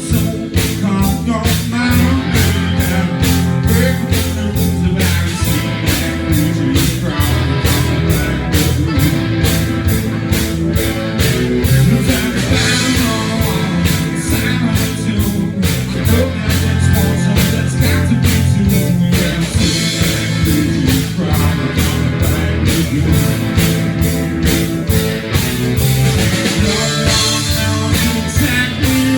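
Live rock band playing a song, with guitar and a steady drum beat.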